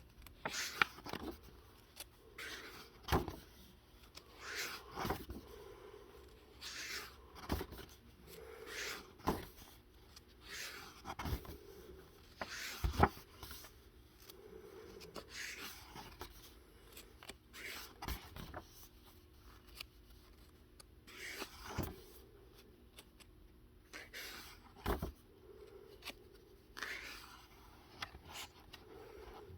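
Pages of a coloring book being turned one after another: short papery rustles and swishes about every second or two, with a few sharper taps and thumps as pages land.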